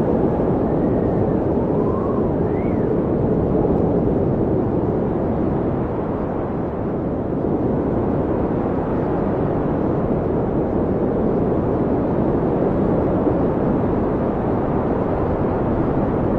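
Storm wind in a blizzard blowing hard, a dense, steady rush. In the first few seconds, brief whistling howls rise and fall in pitch.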